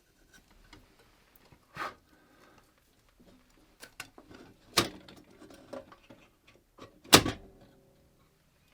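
Several sharp knocks and bumps, like objects being handled and set down in a small room; the loudest come about five and seven seconds in, and the last one rings briefly.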